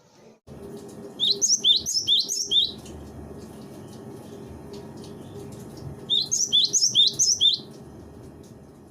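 Gelatik batu (cinereous tit) calling in two bursts of quick, high chirps, each about a second and a half long, with a steady low hum of recording noise underneath.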